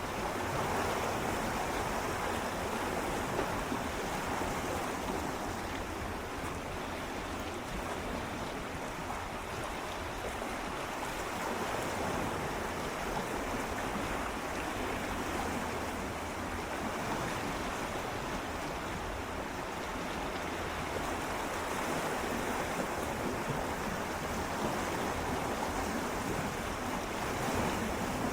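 Gentle sea waves swirling and lapping against shoreline rocks, a continuous wash of water that swells softly a few times.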